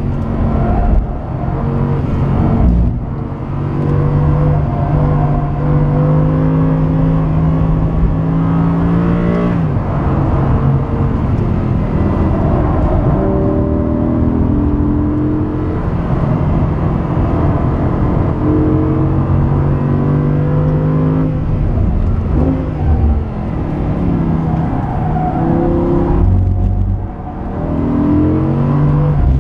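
Audi R8 V10 Plus's 5.2-litre V10 engine driven hard on track: long pulls rising in pitch, each broken by a sudden drop in revs, with a quick run of short rising and falling revs near the end.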